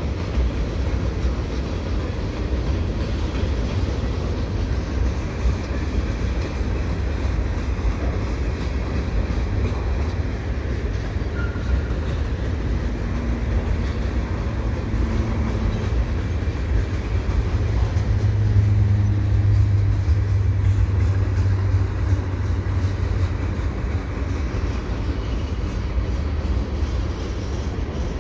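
Slowing freight train rolling past, its flatcars and boxcars making a steady low rumble of wheels on rail. It swells a little, with a low hum, for a few seconds past the middle.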